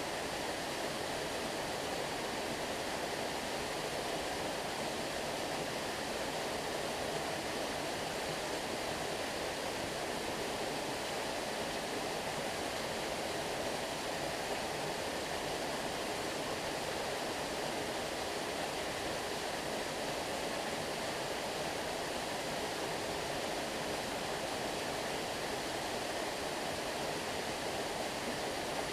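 Flowing stream water rushing steadily, an even wash of sound with no distinct splashes.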